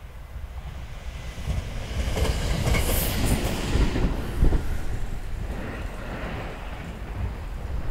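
Ainokaze Toyama Railway electric multiple-unit train passing close by: its rumble builds over the first few seconds, with wheels clattering over rail joints, and is loudest about four seconds in before easing off.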